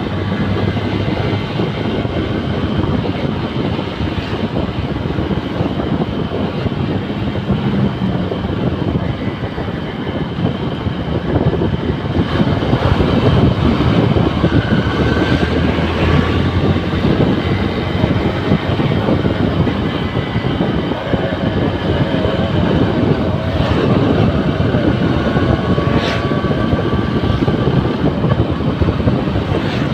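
Honda New Megapro's single-cylinder engine running under way on a wet road, mixed with wind and tyre noise. It grows louder about twelve seconds in.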